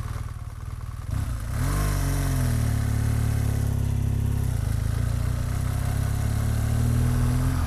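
BMW R 1200 GS Adventure's boxer-twin engine pulling away: about a second and a half in the revs climb and drop back, then the engine runs steadily under way, its pitch rising a little again near the end.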